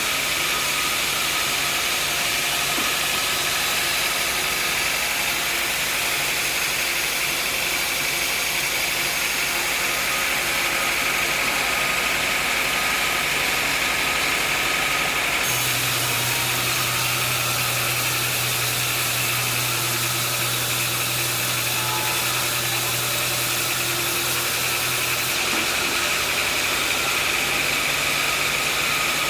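Sawmill machinery running steadily with a constant high whine. About halfway through, a lower hum and a brighter hiss join in, then drop away after about ten seconds.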